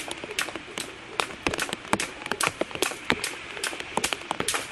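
Rain falling steadily, with many irregular sharp taps of drops landing close to the microphone.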